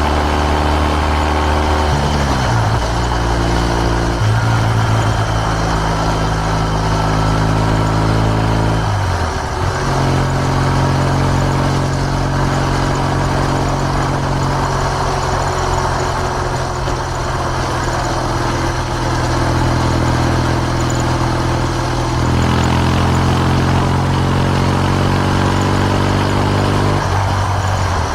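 Kawasaki W650's air-cooled parallel-twin engine running through an aftermarket R's Gear Wyvern Classic muffler while riding. Its pitch drops sharply twice, about two and nine seconds in, and climbs between the drops, then holds steady at cruising speed.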